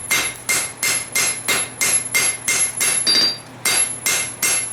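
Forging hammer striking a hot farrier rasp on the anvil, drawing it out into a blade: a steady rhythm of about two and a half ringing blows a second, with a short pause about three seconds in.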